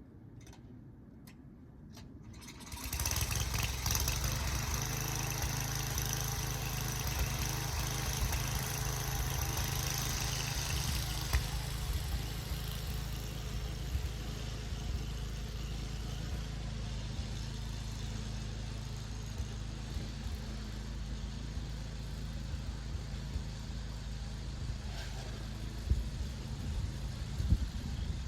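A few clicks, then an engine starts about three seconds in and keeps running steadily, with a high hiss that eases off after about ten seconds.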